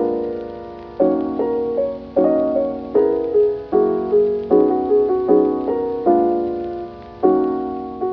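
Background music: gentle solo piano playing chords, each struck and left to die away.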